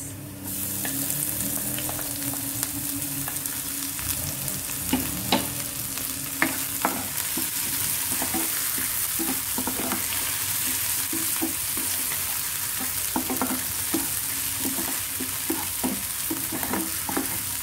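Crushed ginger, garlic and green chillies frying in hot oil in a non-stick kadai: a steady sizzle that starts abruptly as the paste goes in, with a wooden spatula stirring and tapping the pan in short scrapes and clicks throughout.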